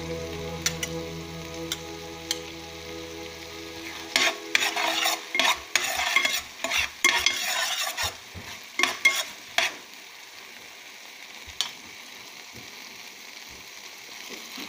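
Chopped onion frying in oil in a pan, sizzling throughout, with a metal spoon stirring and scraping the pan in a run of loud strokes from about four to ten seconds in. A steady hum sounds under the sizzle for the first four seconds.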